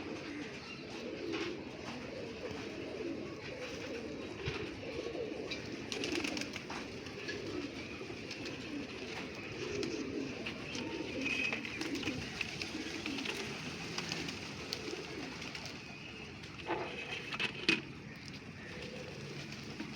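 Domestic pigeons cooing in a steady, overlapping murmur, with scattered sharp clicks and a couple of louder knocks near the end.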